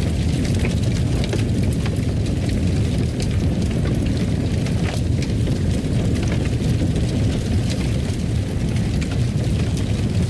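Wood fire in a fireplace burning with a steady low rumble and frequent sharp crackles and pops at irregular intervals.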